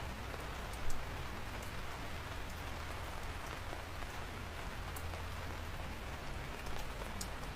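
Steady rain falling, with scattered individual drops ticking on a surface and one louder drop about a second in, over a steady low rumble.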